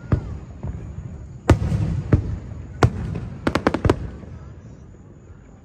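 Fireworks display: aerial shells bursting with sharp bangs and rolling echoes, a quick string of several cracks about three and a half seconds in, then fading quieter near the end.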